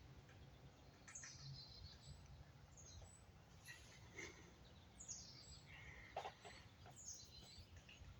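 Faint high bird calls, each sliding downward, repeating about every two seconds, with a few faint, scattered taps from the woods that the listener calls strange tapping sounds.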